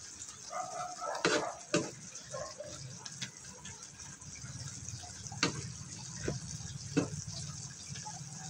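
Pork and string beans simmering in sauce in a wok, hissing and bubbling, while a wooden spatula stirs them and knocks against the pan about six times.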